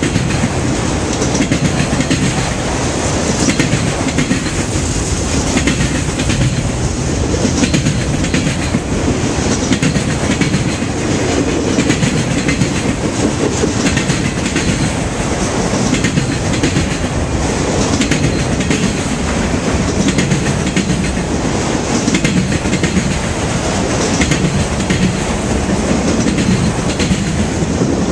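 Freight train cars rolling past at close range, their steel wheels clacking steadily over the rail joints with a continuous rumble.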